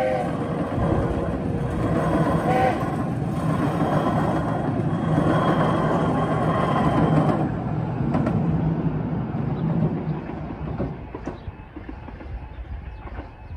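Small-gauge passenger train's coaches rumbling and clattering over the crossing, loud until about seven seconds in, then fading as the last coach clears. A faint repeating level-crossing alarm sounds on over the last few seconds, with the barriers still down.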